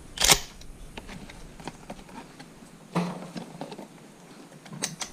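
Sharp clicks and knocks of a Remington 870 pump-action 12-gauge being handled and readied between shots. The loudest knock comes about a third of a second in and another about three seconds in, with a few light clicks near the end.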